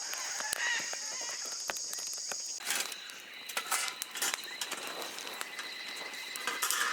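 Outdoor bush ambience: a high, steady insect drone cuts off suddenly about two and a half seconds in. Bird calls and scattered light clicks and taps go on around it.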